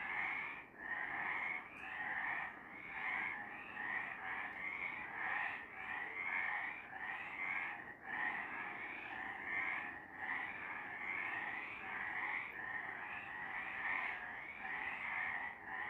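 A chorus of several frogs calling at night, overlapping trilled croaks repeating several times a second without a break.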